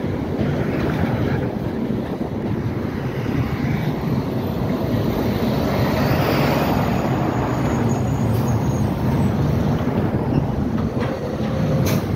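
CSX freight train cars rolling steadily over a railway overpass, a continuous low rumble, with street traffic passing. About six seconds in a tractor-trailer drives close by and the noise swells.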